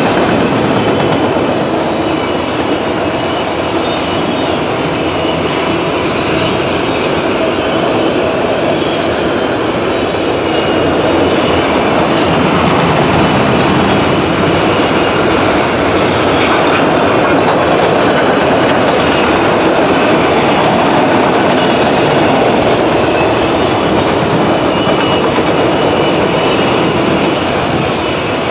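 A long freight train's cars rolling past close by: a loud, steady rumble and clatter of steel wheels on the rails.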